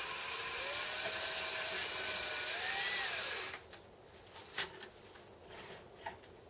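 Power-driven spindle of a home-built Gingery milling machine whirring steadily while its new bearings are run in, the pitch wavering and rising slightly. It stops about three and a half seconds in, followed by a few faint knocks.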